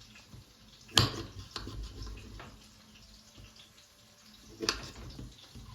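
Two sharp knocks, one about a second in and a louder-peaked one near the end, with a few lighter taps between them, over a low steady background.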